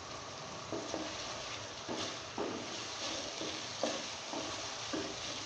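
Chopped tomatoes and onion sizzling steadily in hot oil in a metal karahi, frying down to soften, with a wooden spatula scraping and stirring them in several short strokes.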